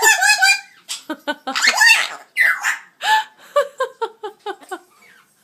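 Amazon parrot vocalizing: squawks and squeaky calls, then a quick run of short laugh-like syllables at about five a second.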